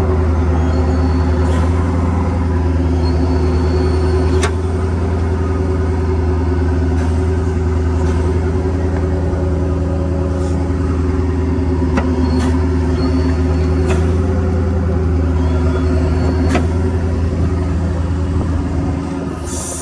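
Ford F550's 6.7L Power Stroke V8 diesel engine running at a steady speed, with faint sharp clicks every couple of seconds.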